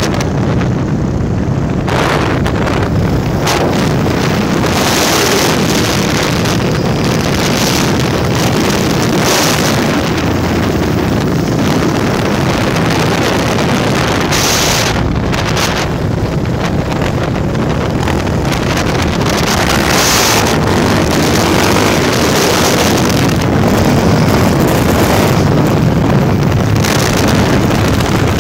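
299cc Honda Tornado single-cylinder motorcycle running at steady road speed, with heavy wind buffeting on the microphone.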